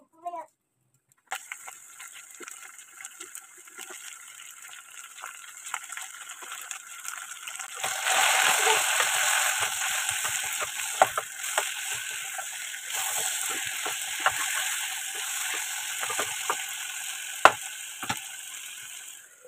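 Diced potatoes and tomatoes sizzling in hot oil in a pot. The sizzle starts about a second in and grows louder around eight seconds in, with scattered clicks of a spoon stirring the pot.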